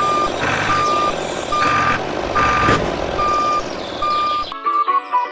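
Electronic reversing beeper: a single steady tone beeping about once every 0.8 seconds, alternating with a buzzy noise between beeps. It cuts off about four and a half seconds in, and music begins.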